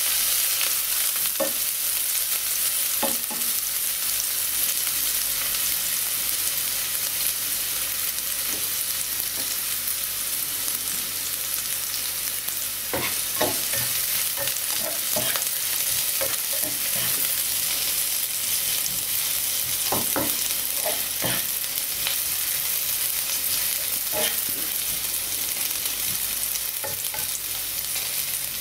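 Sliced ginger, onion, garlic and lemongrass sizzling steadily in hot oil in a nonstick frying pan, with scattered short scrapes and taps of a spatula stirring them. The aromatics are frying until they start to brown.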